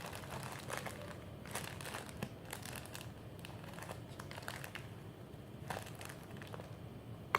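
Plastic packaging being handled and crinkled, with irregular crackles.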